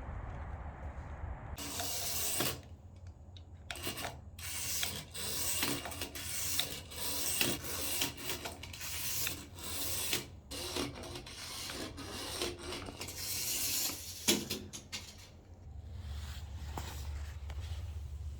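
Rough scraping and rubbing strokes in an irregular run of many short and long passes, starting about a second and a half in and stopping near the end. A low steady hum sits under it at the start and returns near the end.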